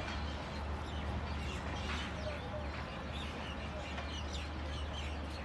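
Birds chirping and calling, many short repeated chirps, over a steady low hum.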